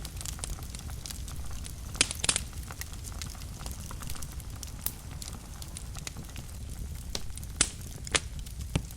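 Wood fire burning in a fireplace: a steady low rumble of flames with scattered sharp crackles and pops, a cluster of loud pops about two seconds in and a few more near the end.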